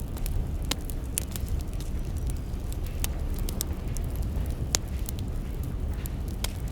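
Wood fire burning with a steady low rumble and irregular sharp crackles and pops of firewood.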